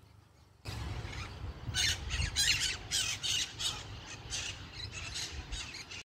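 Birds squawking, a rapid irregular series of harsh calls, two or three a second, over a low rumble; the sound starts abruptly about half a second in.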